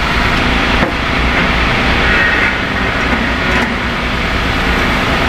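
Steady din of heavy vehicle engines and traffic noise with a strong low rumble, briefly broken about a second in and again past three and a half seconds.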